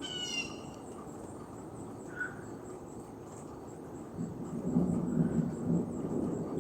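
Thunder rumbling, starting about four seconds in and building, after a brief high falling chirp at the start.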